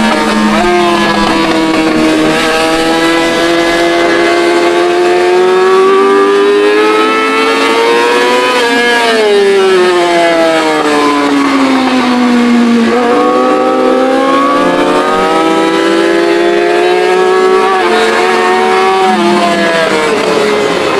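Yamaha R6 inline-four sportbike engine through a straight-piped exhaust, heard from on the bike: revs climb steadily for several seconds, fall away for a few seconds, jump up about two-thirds of the way through and climb again, with a couple of quick stepped drops in pitch near the end.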